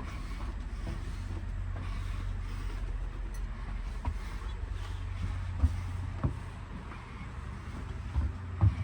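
Steady low hum inside a stationary passenger rail car, with a few short knocks about four, five and a half, six and eight and a half seconds in.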